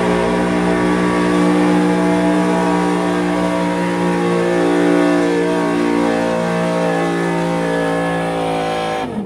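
Small-block modified gas V8 pickup engine held at high, steady revs under full load during a truck pull, its pitch wavering slightly. The sound stops abruptly near the end.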